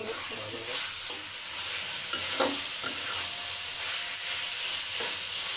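Taro pieces frying in oil in a metal kadai, sizzling steadily while a metal spatula stirs them and scrapes across the pan, with one brief stronger scrape about two and a half seconds in.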